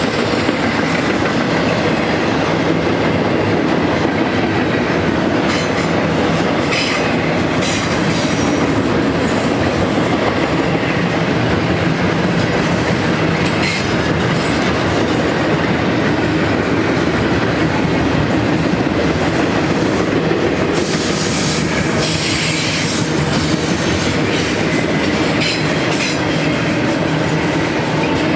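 Double-stack intermodal container well cars rolling past: a steady rumble of steel wheels on rail with clickety-clack, and high-pitched wheel squeal now and then.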